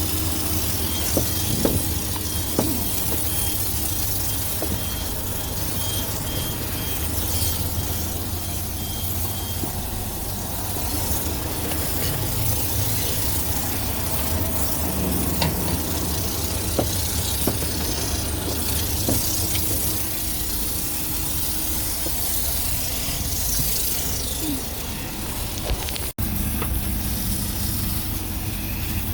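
Coin-operated car-wash vacuum running steadily, its motor humming under a continuous suction hiss, with a momentary break about 26 seconds in.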